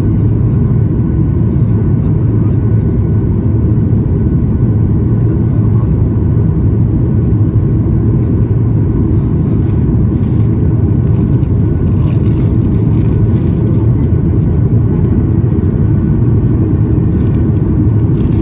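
Steady, loud low cabin roar inside a Boeing 737 MAX 8 airliner in flight, the noise of its engines and the airflow past the fuselage, with a few faint steady tones above it.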